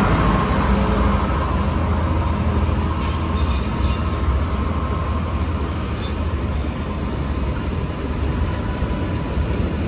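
A train running past at speed: a steady rumble of wheels on rail, with a faint thin squeal held throughout.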